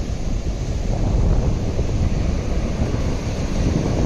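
Wind buffeting the microphone on a beach, with the wash of waves on the shore underneath: a steady, rumbling rush.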